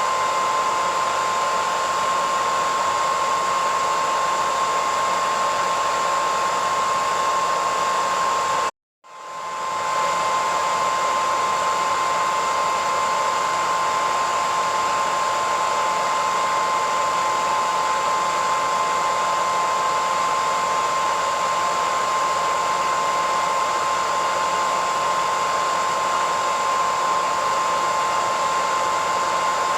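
Hair dryer running steadily, a rush of air with a high whine. About nine seconds in it cuts out for a split second and swells back to full over about a second.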